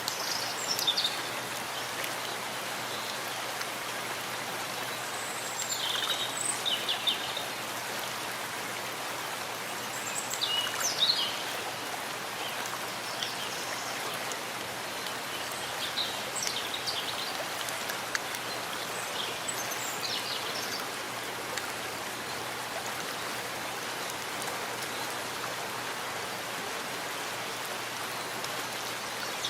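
Steady rain falling in a forest, an even hiss of drops on leaves and ground. Short high chirps from a bird come through about every five seconds.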